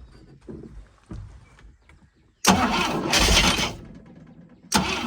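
Old carbureted boat engine with points ignition being cranked by its starter and trying to fire on a shot of ether, in two loud attempts: one about halfway in that fades off, and another starting near the end. It is not catching and running; the owner suspects it is getting no fuel from the tank.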